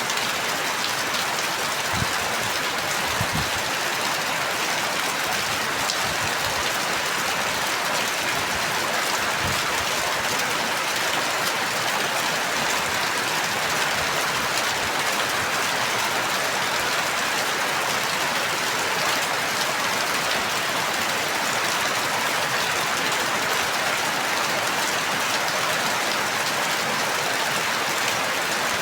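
Steady rain falling, an even hiss of many drops, with a few faint low thuds in the first several seconds.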